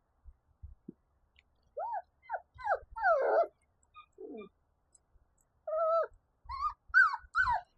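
A five-week-old Labradoodle puppy whining and crying in short, high cries that rise and fall in pitch, coming in two bunches of four or five.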